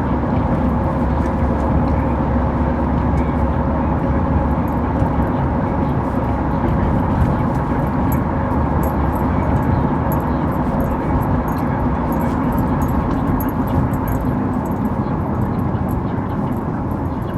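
Steady road and engine noise heard inside a moving car's cabin, with a low rumble.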